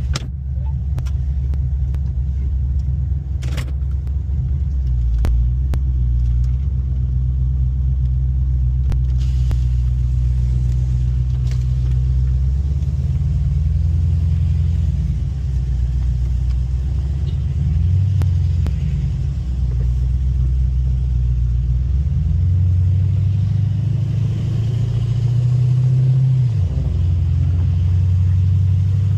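Pontiac V8 engine and exhaust, a low rumbling drone heard from a car being driven. The pitch shifts up and down with engine speed and drops suddenly near the end.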